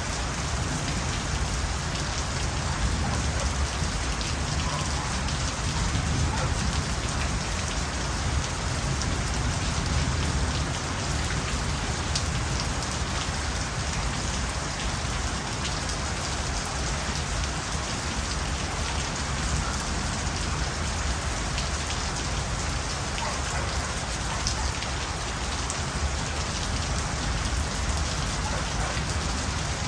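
Steady rain falling, an even hiss with scattered sharper ticks of drops striking a surface.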